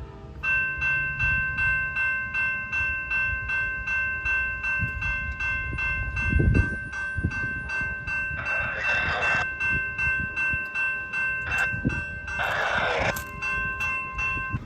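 Railroad grade crossing bell ringing in fast, even strokes, about three a second, then stopping just before the end. Two short hissing bursts come through it partway along.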